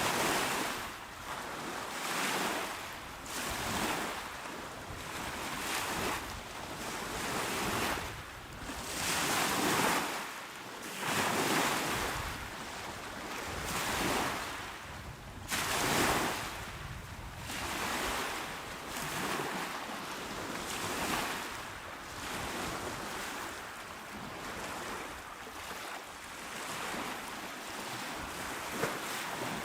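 Calm waves washing onto a shore: a steady hiss of surf that swells and falls away every second or two.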